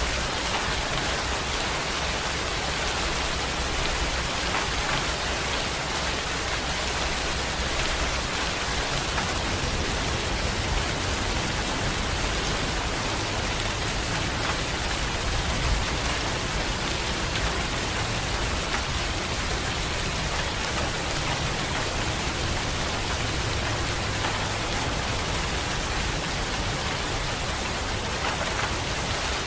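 Steady rainfall, an even hiss of drops falling on a wet surface, with no changes.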